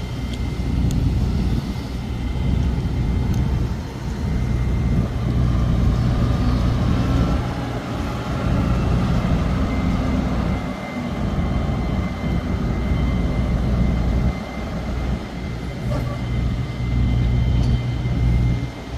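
Truck cab noise while driving: a steady low engine and road rumble that swells and dips, with a faint thin high whine held throughout.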